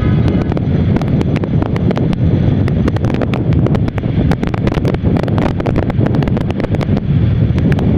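Wind rushing over the camera microphone of a moving motorcycle, a steady low roar with many small crackles, over the bike and road noise.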